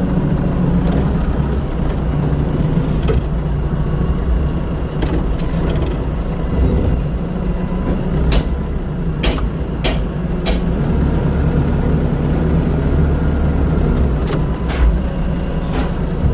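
A vehicle engine running steadily with a low rumble, with a scatter of sharp metallic clanks through the middle and near the end.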